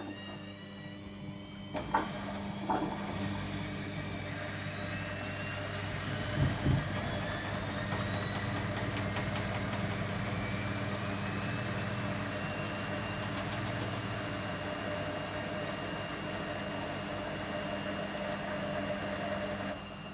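Logik L814WM16 washing machine running up to speed, a horrible grinding sound over a steady low hum. A whine rises in pitch for about ten seconds and then holds steady, with a few knocks in the first seven seconds.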